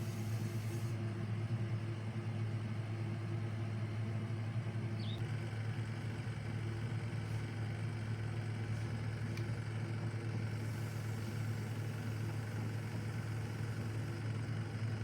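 Refrigerator compressor running with a steady low hum while being charged with R134A refrigerant.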